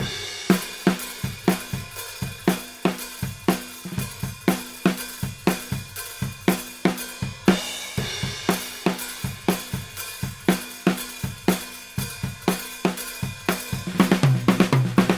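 Acoustic drum kit playing a steady groove of kick, snare and cymbals, picked up by condenser overhead mics through a 501+ preamp set clean with its XRL function engaged. Near the end a quick run of lower-pitched drum hits leads back into the beat.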